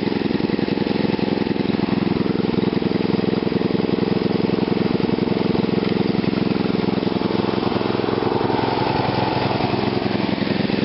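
Small engine fed through a GEET fuel reactor, idling steadily with an even, unchanging beat.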